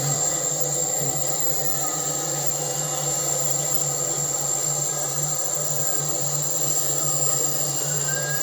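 A steady mechanical drone that holds unchanged, with a constant high whine over it.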